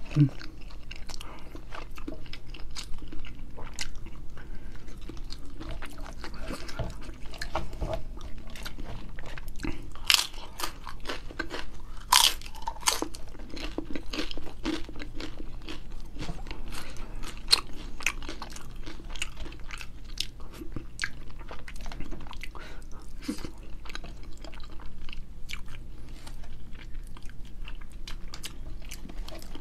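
Close-up eating sounds of a person chewing rice and grilled fish by hand: steady wet chewing with frequent crisp crunches and mouth clicks, two sharper ones about ten and twelve seconds in.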